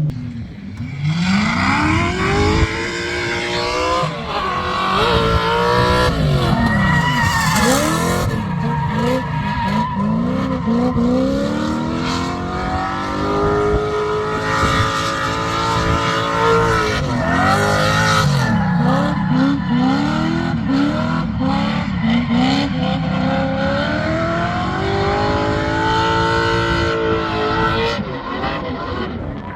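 Drift car engine revving hard up and down again and again while the tyres squeal in a long slide.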